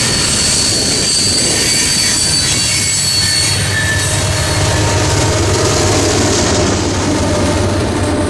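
Freight train rolling past, its cars rumbling steadily while the wheels squeal in thin high tones that fade out about halfway through.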